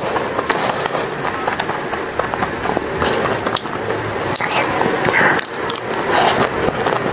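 Chewing and crunching of a chocolate-coated ice cream bar with peanuts, a dense run of crackly clicks, with a fresh bite into the bar near the end.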